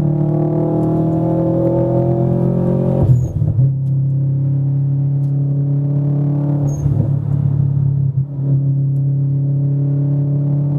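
Subaru Impreza WRX's Stage 2 turbocharged flat-four, fitted with a downpipe and intake, pulling under acceleration, heard from inside the cabin. Its note rises for about three seconds, breaks off at a gearshift, then settles into a steady rumble, with a second brief interruption around seven to eight seconds in.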